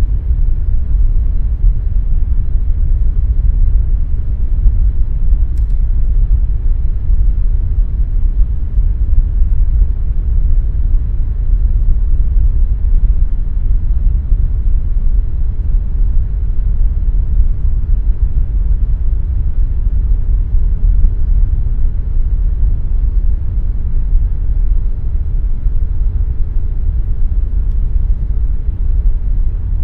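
Air conditioner running steadily: an even, deep rumbling hum of noise with a faint steady tone above it.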